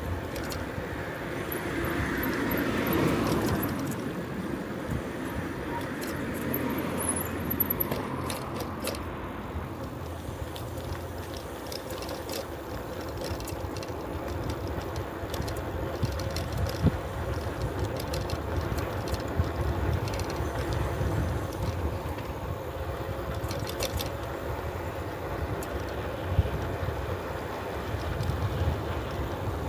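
Bicycle tyres rolling on a road with wind on the microphone and a low steady rumble, swelling to a louder rush about three seconds in, with a few sharp clicks along the way.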